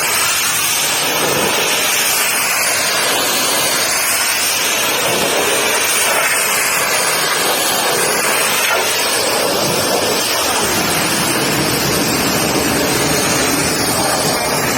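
Pressure washer spraying water in a steady, loud hiss.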